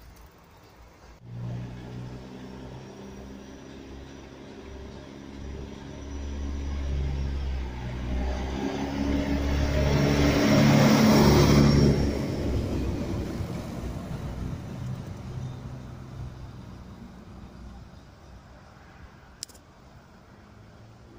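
A single-car diesel railcar passes close by. Its engine drone and wheel noise grow louder as it approaches, peak about halfway through, then fade as it pulls away.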